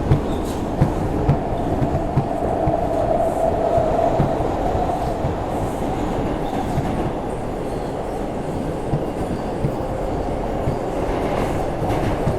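Inside a moving R142 subway car: a steady rumble of wheels on rail, with scattered clicks as the wheels cross rail joints, and a faint hum for a few seconds around the middle.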